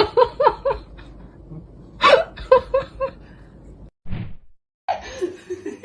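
A woman laughing in two runs of short, quick pulses, one at the start and another about two seconds in. A short sound follows a little after four seconds, then the audio cuts out briefly.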